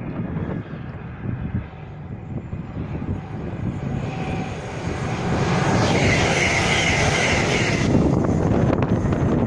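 Train on the West Coast Main Line running through the station: a low rumble that grows louder about five seconds in, with a higher rushing sound and a steady high whine for a couple of seconds.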